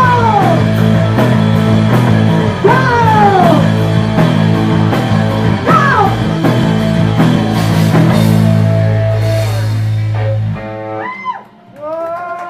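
Live punk rock band playing the end of a song: guitars, bass and drums on a steady beat, with a few long falling wails over the top. The band stops about ten and a half seconds in, leaving a few brief voices.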